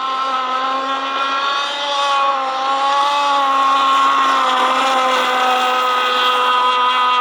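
Shovel nose RC model powerboat running at speed: a loud, high, steady motor note that wavers slightly in pitch.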